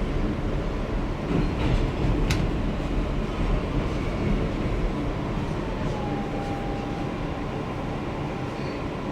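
An R160B subway car running on the track, heard from inside the car: a steady low rumble with a sharp click about two seconds in and a faint thin whine around six seconds in.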